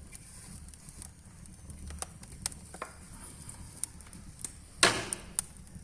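Sparse clicks and knocks of firewood in a fireplace, with one sharper, louder knock about five seconds in, over a low rumble.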